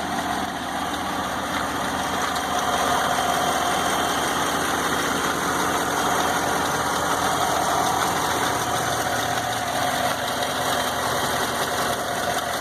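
2015 GMC Yukon Denali XL's 6.2-litre V8 idling steadily.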